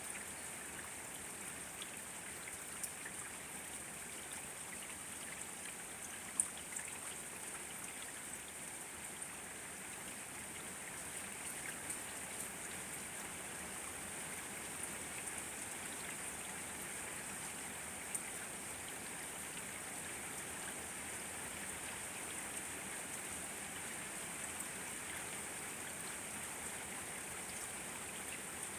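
Steady rain falling, with scattered individual drops ticking on surfaces and a sharper drip about six seconds in.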